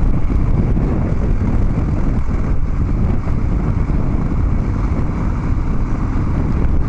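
Harley-Davidson Dyna Street Bob V-twin running steadily under way through Vance & Hines Big Radius 2-into-2 exhaust pipes, with wind rushing over the helmet microphone.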